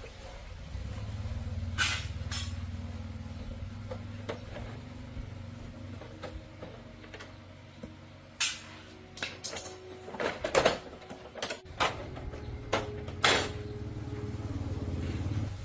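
A low steady motor hum, fading in the middle and back near the end, with a run of sharp clanks and knocks in the second half.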